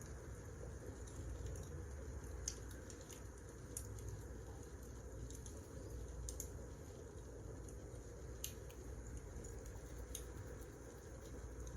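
Wood fire burning, with scattered sharp crackles and pops over a low steady rumble.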